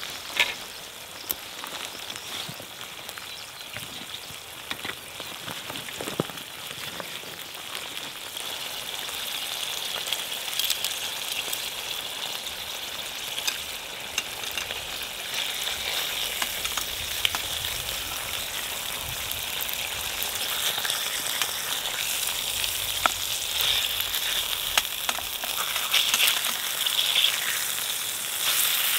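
Bacon and sausage sizzling in a Firebox 8-inch frying pan: a steady sizzle scattered with small crackles and pops, growing louder after the first several seconds.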